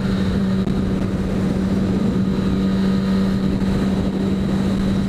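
600 cc sportbike engine running at a steady, unchanging pitch while cruising, with wind rushing over the microphone.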